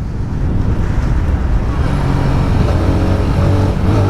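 Small-capacity motorcycle engine running while riding, with wind rushing over the microphone. From about halfway in, a steady engine note stands out more clearly above the rush.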